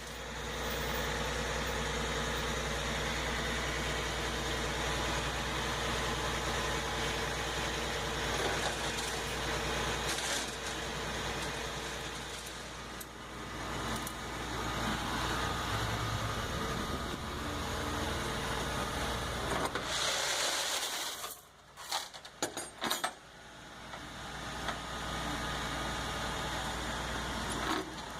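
Steady motor vehicle noise with a constant low hum. It grows louder briefly about twenty seconds in, then dips, with a few sharp clicks, before the hum comes back.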